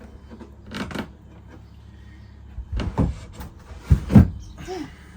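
Several hollow knocks and thumps as the boat's water exhaust part is worked loose and pulled from its compartment. The loudest pair comes about four seconds in.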